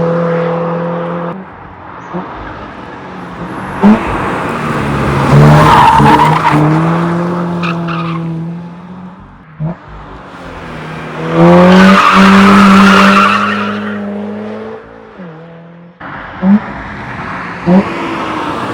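Toyota GR86's FA24 flat-four through a non-resonated Ragazzon exhaust, revving up and down several times: two loud climbs to a steady drone, each falling away as the throttle closes, with a few short sharp blips in between.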